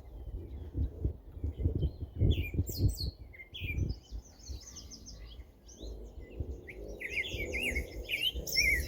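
Small songbirds singing, with a rapid song of quick up-and-down notes that grows louder in the last two seconds. Low rumbling thumps run underneath, strongest in the first four seconds.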